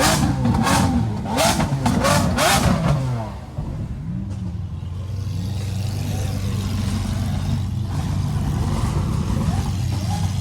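A car engine revved hard in several quick loud bursts, the pitch sweeping up and down. About three seconds in it drops away and settles into a steady running drone.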